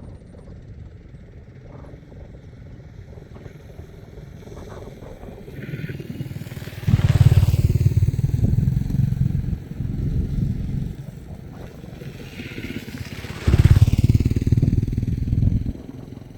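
Two motor vehicles pass close by one after the other, each running loudly for a few seconds and then fading.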